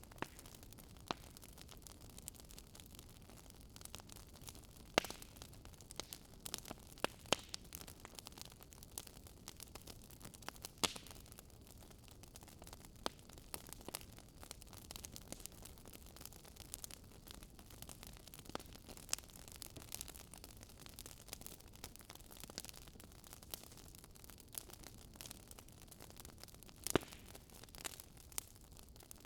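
Wood fire crackling in a fireplace: irregular sharp pops and snaps, a few louder than the rest, over a low steady hiss.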